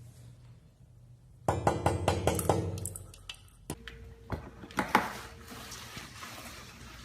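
A fast run of clattering clinks from small hard objects knocking together, lasting about a second, followed by a few separate sharp knocks.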